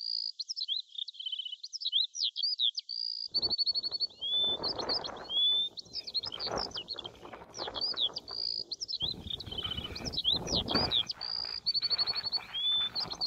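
Songbird song: quick, varied whistled notes, slurs and a fast trill. The same string of phrases repeats about every eight seconds. Underneath, from about three seconds in, an outdoor rushing noise comes and goes.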